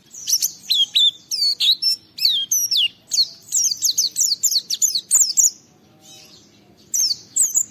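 A pleci (white-eye) singing in fast runs of high, sharply falling whistled notes. The song breaks off for about a second and a half near the end, then starts again.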